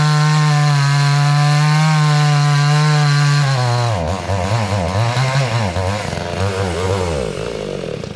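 Garwinner 62 cc two-stroke chainsaw running at high revs, then, a few seconds in, starting to surge and sag in pitch before dying out near the end: the saw running out of fuel.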